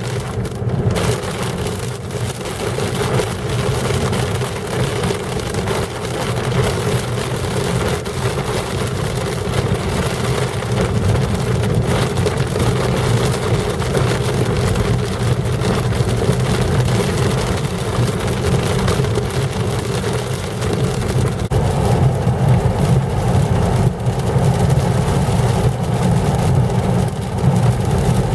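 Steady rush of rain and wind from a thunderstorm, with a low steady hum underneath. The rush gets louder about three quarters of the way through.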